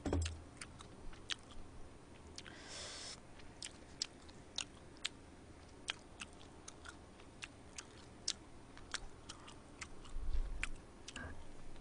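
A person chewing food close to the microphone: soft wet mouth clicks and smacks at irregular intervals, with a short hiss about three seconds in and a low bump near the end.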